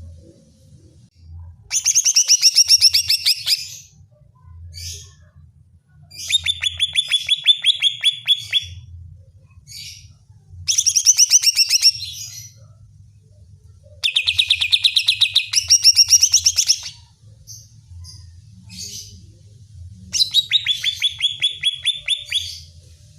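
Greater green leafbird (cucak ijo) singing in five bursts of fast, sharp repeated notes. Each run lasts two to three seconds, with short pauses between them.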